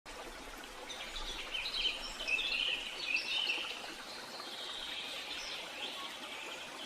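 Wild birds chirping and trilling, several short calls overlapping, busiest in the first half, over a steady background hiss of outdoor ambience.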